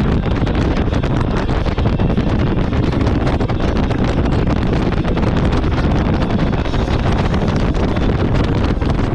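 Steady, heavy wind buffeting the microphone on a moving jet ski, with the watercraft's engine and water noise beneath it.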